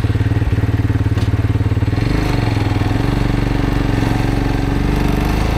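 Road motorcycle's engine running with a steady, pulsing beat, its note changing about two seconds in.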